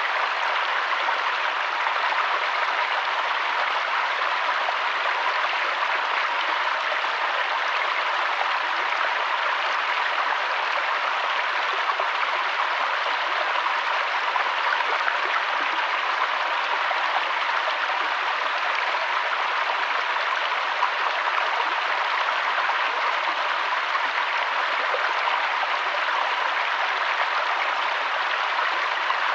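Mountain waterfall and stream, water rushing steadily without a break.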